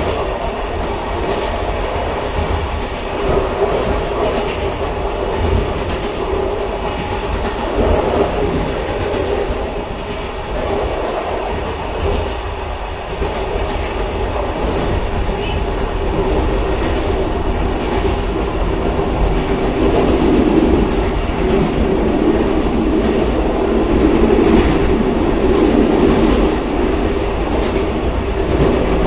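Continuous rumble of a railcar running on the rails, with a faint clatter of wheels over rail joints. The rumble grows somewhat louder in the second half.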